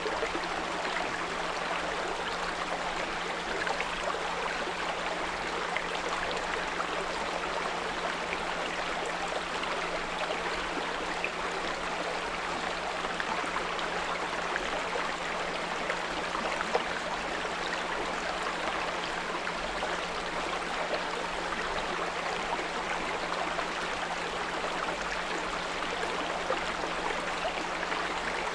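Small brook running steadily over stones, overlaid with a steady low 174 Hz pure tone.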